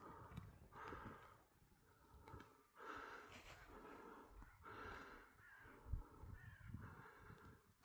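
Crows cawing faintly: three or four harsh calls about two seconds apart, over a low rumble.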